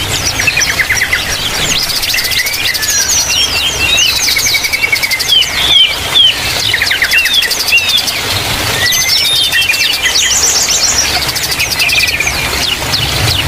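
Aviary birds, yellow-vented bulbuls among smaller birds, calling together: a busy mix of chirps, quick trills and short whistled notes, with two louder whistles about six seconds in.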